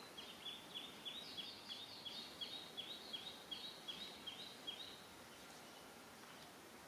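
A bird calling a fast, regular series of short, high chirps, about four a second, that stops about five seconds in.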